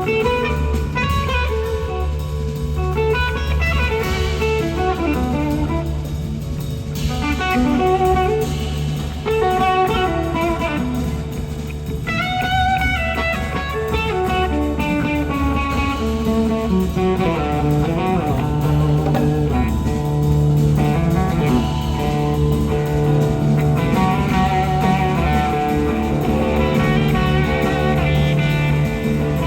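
Live blues-rock band with an electric slide guitar soloing, its notes gliding up and down over a steady bass line.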